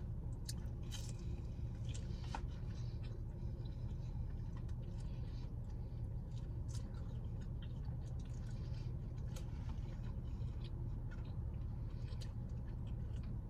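Faint chewing with small wet mouth clicks and scattered light ticks, over a steady low hum inside a car cabin.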